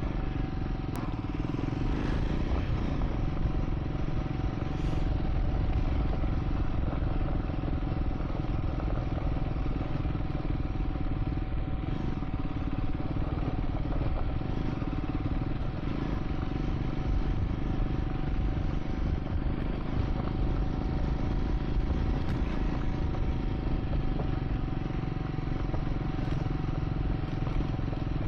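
Triumph Scrambler 400 X's single-cylinder engine running steadily while under way, with a thin steady tone above it.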